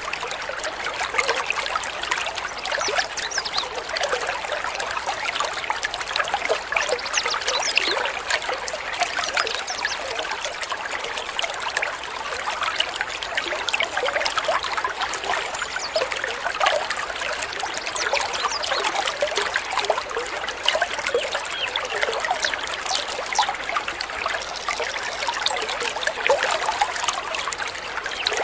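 Water trickling and babbling steadily, a dense run of many small splashes with no pauses.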